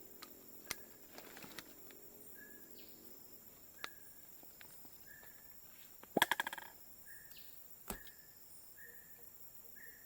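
Quiet outdoor ambience: a bird repeats a short call note about every half second, over a steady high whine. There are a few sharp clicks and, about six seconds in, a loud quick rattle of clicks.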